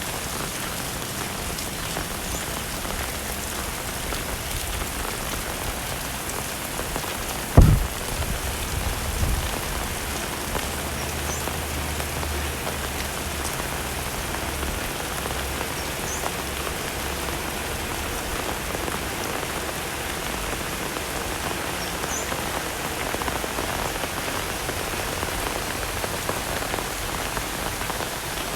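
Heavy rain falling steadily. A single low thump stands out about seven and a half seconds in, with a softer one shortly after.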